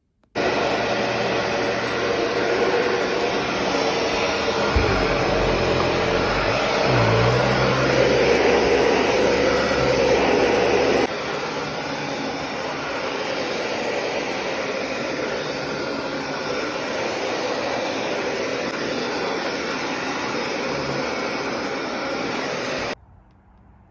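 Vacuum cleaner running, a steady rushing noise with a few low bumps about five to seven seconds in; it drops a little in level about halfway through and cuts off abruptly near the end.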